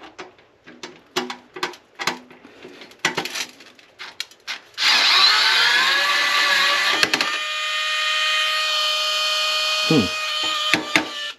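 Light clicks and handling knocks, then a small electric motor starts about five seconds in, its whine rising in pitch for a couple of seconds before settling into a steady run until it cuts off abruptly.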